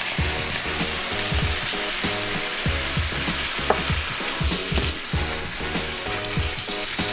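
Jumbo shrimp sizzling steadily in olive oil in a skillet, stirred with a spatula near the end, over a low repeating beat.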